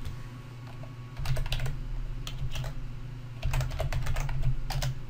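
Typing on a computer keyboard: three short runs of keystrokes, over a low steady hum.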